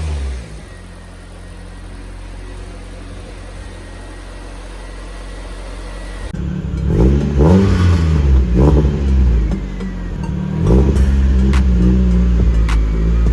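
Nissan 240SX's turbocharged KA24DE four-cylinder engine running: first a low steady hum, then from about six seconds in much louder, the engine speed climbing and dropping several times as the car accelerates.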